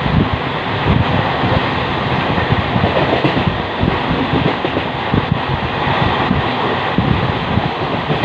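Indian Railways train running on the track: a loud, steady rumble of wheels on rails with irregular low knocks.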